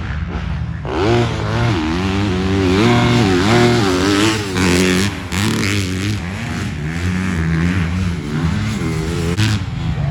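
Motocross dirt bike engines revving up and down, the pitch rising and falling with each throttle change, growing louder about a second in.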